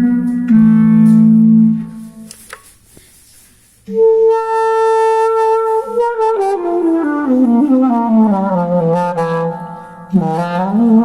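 Clarinet-like tone from a Zoom G3n multi-effects unit playing a melody: a low held note that stops about two seconds in, a short pause, then a long higher held note and a run of notes stepping downward, with a new phrase starting near the end.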